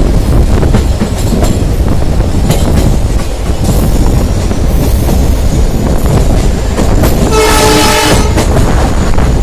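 Moving passenger train heard from on board: a steady rumble of wheels on rail with wind noise and scattered rail-joint clicks. About seven seconds in, the hauling WDG4 diesel locomotive's horn sounds once for about a second.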